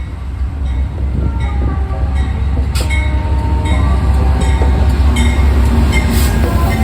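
Amtrak passenger train passing at speed: a heavy steady rumble growing louder, with a regular clack of wheels over rail joints a little more than once a second.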